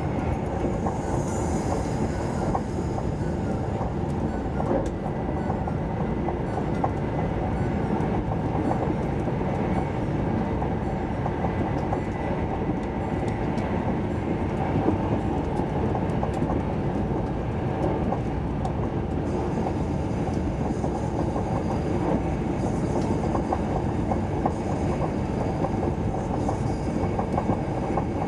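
Cabin running noise of an SJ 3000 (X55) electric multiple unit at speed: a steady rumble of wheels on rails with faint scattered clicks.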